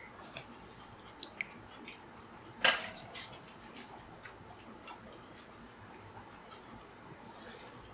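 Cutlery clinking against dishes at a meal: scattered light clinks and taps, the loudest two close together about three seconds in.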